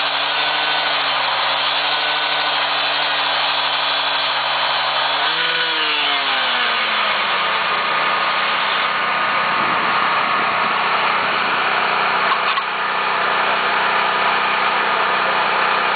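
Small engine-driven track machinery running steadily. About five seconds in its pitch rises briefly and then slides down, and it gives way to a harsher, steady mechanical noise.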